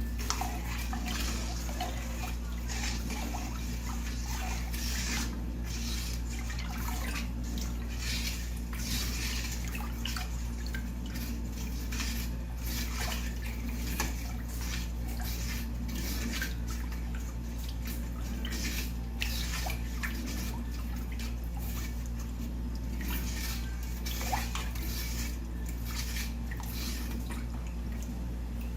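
Sugar being mixed into a bowl of strained corn liquid for canjica: irregular sloshing and swishing of the liquid, over a steady low hum.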